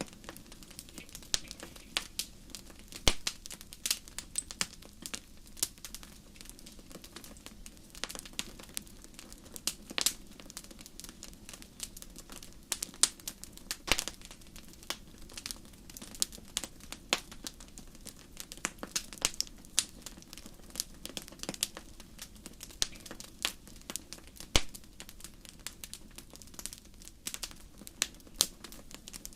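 Wood fire crackling in a fireplace: irregular sharp pops and snaps, several a second, over a faint steady low background.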